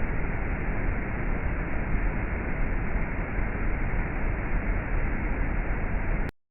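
Waterfall water rushing and splashing in a steady roar of noise, which cuts off suddenly near the end.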